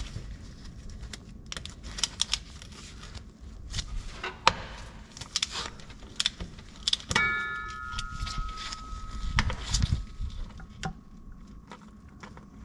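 Metal hand tools clinking and clicking against each other and the truck's transmission while the drain plug is worked loose, with one struck piece of metal ringing clearly about seven seconds in.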